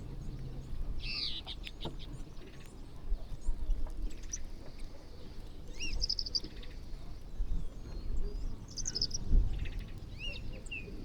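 Small birds chirping, short sweeping calls coming every second or two, over a steady low rumble.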